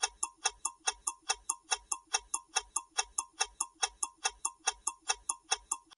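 Countdown timer sound effect ticking like a clock, sharp even clicks about four times a second.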